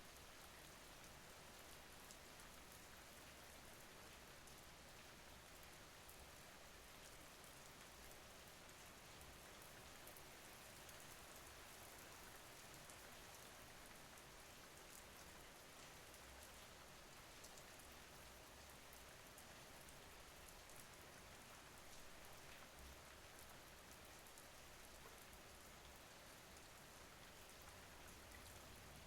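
Faint steady rain: an even hiss with scattered light drops.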